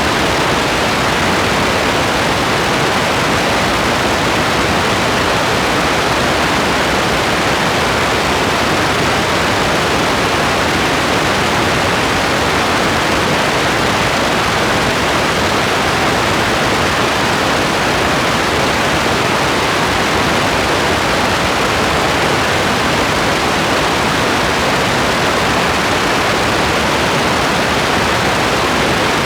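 Steady rain: a constant, even hiss with no separate drops, thunder or changes.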